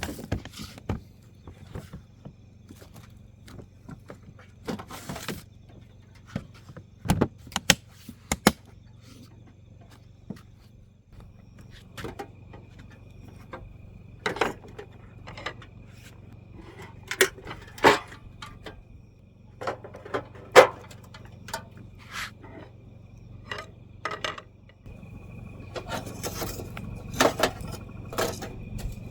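Scattered clinks, knocks and rattles of hard objects being handled, coming in short clusters, over a steady low hum.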